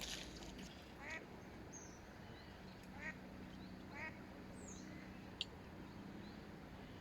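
Duck quacking faintly three times: short nasal calls about a second in, about three seconds in and about four seconds in.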